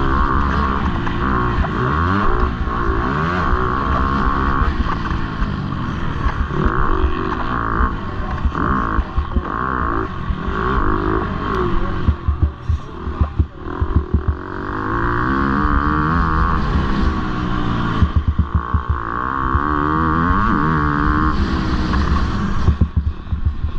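Motocross bike engine revving hard and falling away again and again through gear changes and throttle chops, with a few short drops and cracks in the sound near the middle.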